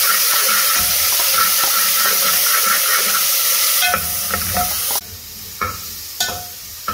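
Ginger-garlic paste and browned onions sizzling loudly in hot oil in an aluminium pot, stirred with a metal spatula. After about four seconds the sizzle drops away, leaving a few sharp clicks and taps near the end.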